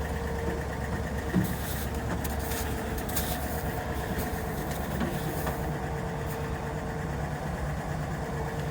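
1960s Ford fire truck's engine idling steadily and smoothly, purring like a kitten, with a light knock about a second and a half in.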